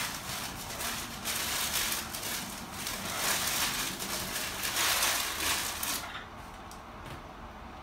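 Crumpled paper packing rustling and crinkling as it is handled and pulled out of a cardboard box, stopping about six seconds in.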